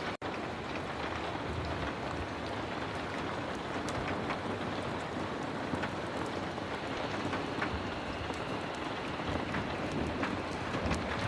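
Heavy rain falling steadily, with scattered small ticks and pops over the hiss. The sound drops out for an instant just after the start.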